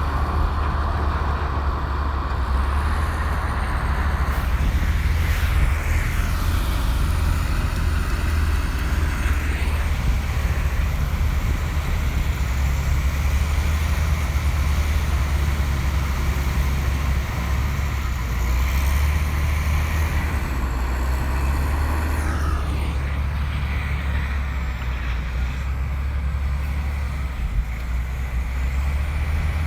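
Komatsu bulldozer's diesel engine running steadily with a deep, even rumble, a faint high wavering squeal riding over it.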